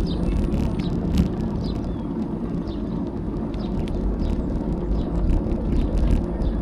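Bicycle riding along, heard from a bike-mounted action camera: wind noise on the microphone and tyre noise as a steady low rush, with frequent small ticks and rattles from the bike.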